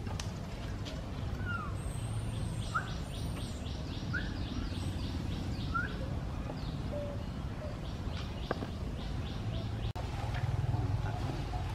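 Birds calling: a few short rising chirps and a fast repeated high trill, over a steady low rumble.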